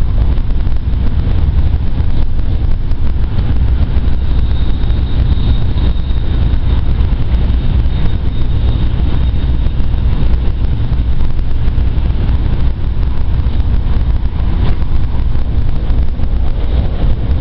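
Inside a Shinkansen car at speed: a steady low rumble and rush of running noise. A faint high whine comes in for several seconds around the middle.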